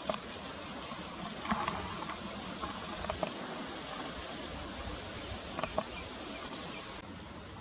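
Steady outdoor background noise with a few short, faint clicks scattered through it.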